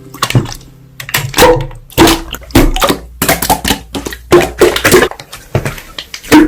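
Slime being squished and poked by hand, a fast run of wet clicks and pops several times a second.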